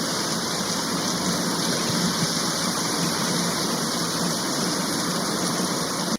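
Steady heavy rain, a dense even hiss with no thunder heard.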